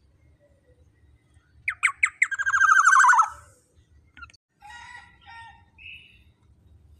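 Black-naped oriole calling. A few sharp notes run straight into a loud, fast, harsh chatter that lasts over a second, followed by fainter short calls.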